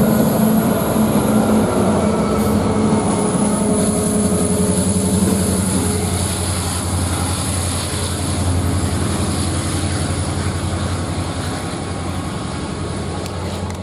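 Train passing close by: a steady low drone of diesel locomotive engines over rolling rail noise. It stops abruptly near the end.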